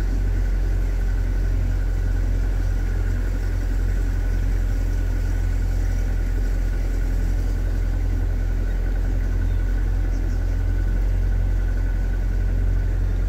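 Vehicle engine running in first gear at low speed, heard from inside the cabin as a steady low drone with a faint constant whine above it.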